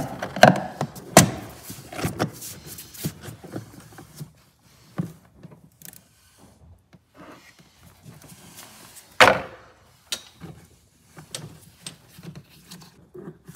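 Plastic engine-bay trim and clips on a BMW E60 being handled and pulled off: a run of clicks and knocks, busiest in the first few seconds, with one loud clack about nine seconds in.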